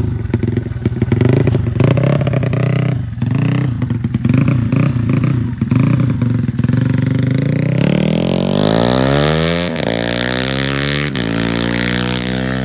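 Honda C70 motorcycle with a 180cc engine, first running unevenly with short blips of the throttle, then accelerating hard about two thirds of the way in, its pitch rising and dropping back twice at gear changes before climbing again.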